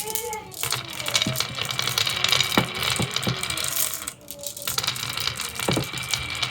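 Marbles clattering down a marble run track, a dense stream of small clicks and rattles with a brief lull a little past the middle.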